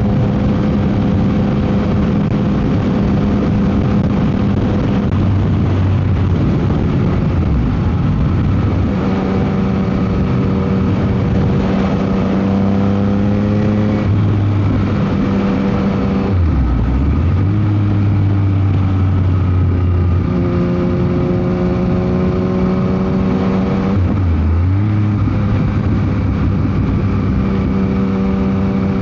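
Yamaha MT-09 SP three-cylinder engine running through a Dominator GP aftermarket exhaust while riding, its note climbing slowly and dropping briefly a few times, about halfway and again near the end. Heavy wind noise on the microphone runs underneath.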